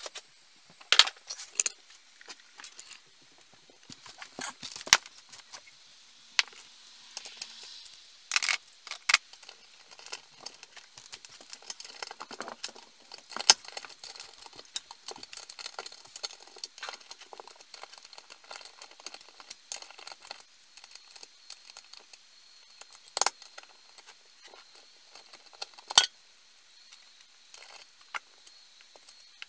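Scattered sharp clicks and light metallic clinks of small metal parts and tools being handled, with a few louder knocks among them.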